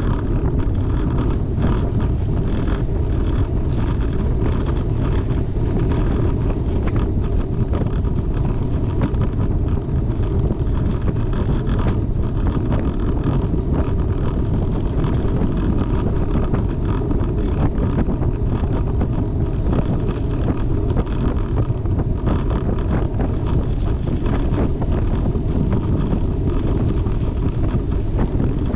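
Wind rushing steadily over the microphone of a camera riding on a moving road bicycle.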